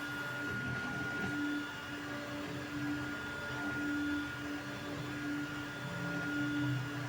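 Creality Ender 3 V3 3D printer running a print: its stepper motors whine in short tones that keep switching and changing pitch as the head moves, over a steady high fan tone.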